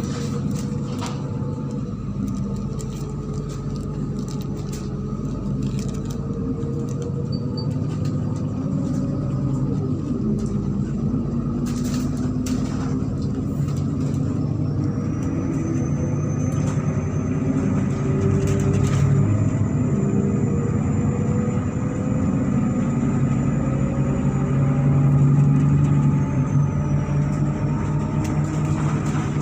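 MAZ-103.486 city bus driving, its engine note rising and falling as it pulls away and slows, over steady road noise with occasional rattles.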